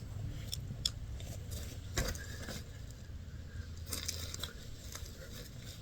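Scattered light clicks and clinks of small metal parts being handled, over a low steady hum.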